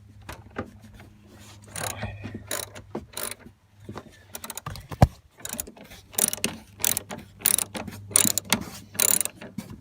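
Socket ratchet clicking in repeated bursts as a 10 mm bolt is worked loose, with a single sharp knock about five seconds in.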